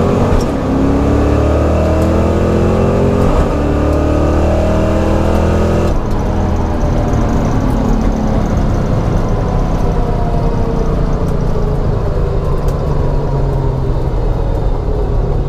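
A 1989 Mustang GT's 5.0 V8 with GT40 heads accelerating hard on a drag strip pass: its pitch climbs for about six seconds, drops suddenly and climbs again more slowly, then eases off near the end.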